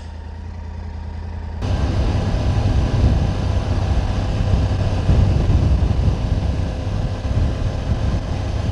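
Triumph Tiger 900 GT Pro's three-cylinder engine running at low speed. About a second and a half in, a loud rushing rumble of riding noise takes over as the bike moves off.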